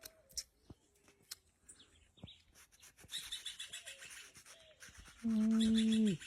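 Birds chirping, with a fast, continuous high chirping trill from about halfway in. Near the end a loud held tone sounds for about a second, dropping in pitch as it cuts off.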